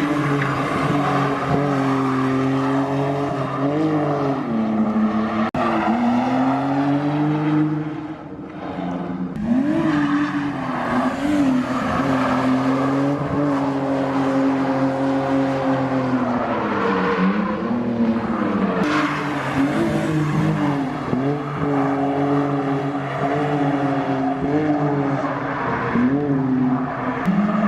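Drift car engine revving hard and falling back again and again, its pitch swinging up and down every few seconds, with tyre noise from sliding on the wet track. A brief lull comes about eight seconds in.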